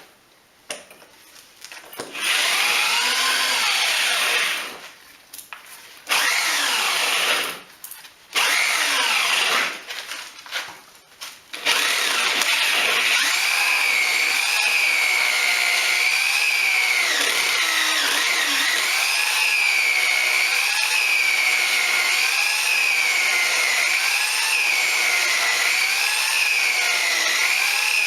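Electric drill boring through a house wall: three short runs of a few seconds each, then a continuous run from about twelve seconds in, its motor whine wavering up and down in pitch as the load changes.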